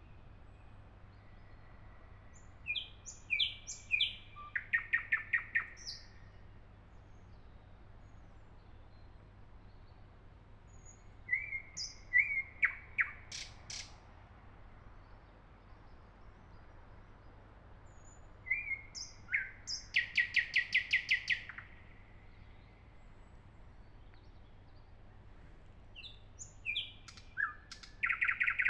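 Nightingale singing: four song phrases with pauses of several seconds between them, each opening with a few short whistled notes and running into a fast, rapidly repeated series of notes.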